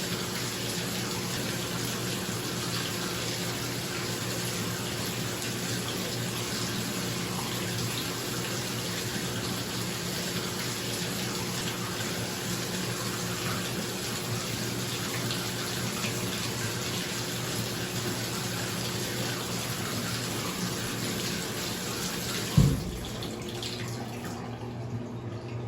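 Bathtub tap running into the tub over the steady hum of a bathroom exhaust fan. Near the end there is a single thump, after which the water sound fades and the fan hum carries on.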